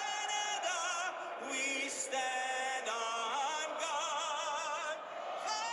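A solo singer holding long notes with a strong vibrato, a national anthem sung at the start of a hockey game broadcast.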